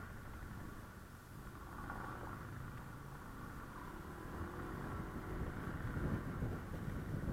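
Honda Click 125i motor scooter being ridden in traffic: the single-cylinder engine runs under a low rumble of road and wind noise buffeting the microphone.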